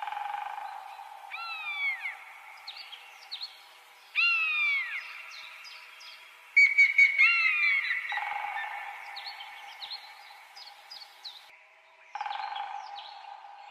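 Birds calling: three loud falling whistled calls a few seconds apart and many short high chirps, over a steady high hum. The sound is thin, with no low end.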